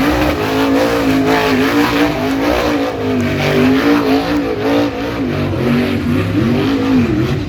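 Speedway modified car's engine revving hard and unevenly, its pitch rising and falling over and over as the driver works the throttle in a show for the crowd.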